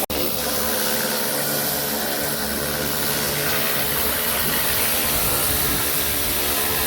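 Pressure washer (jet wash) running: a steady motor-pump hum under a constant loud hiss of water spray.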